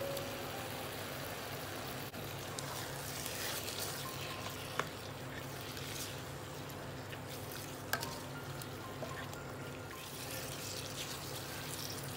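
Chicken pieces sizzling in a non-stick pan while yogurt and spices are stirred in with a spatula, with two sharp knocks of the utensil on the pan, about five and eight seconds in.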